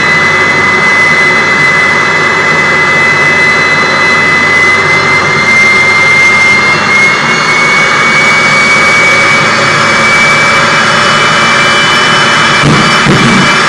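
Hellfire jet truck's jet engine running loud and steady, its high turbine whine slowly rising in pitch.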